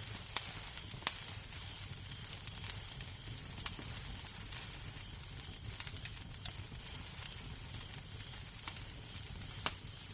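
Wood fire crackling in a fireplace: a steady soft hiss and low rumble with sharp pops at irregular moments, the loudest about a second in and near the end.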